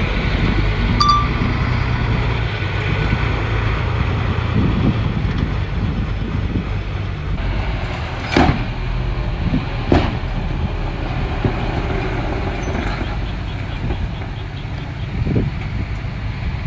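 Komatsu bulldozer's diesel engine running with a steady low rumble, with two sharp knocks a second and a half apart about eight seconds in.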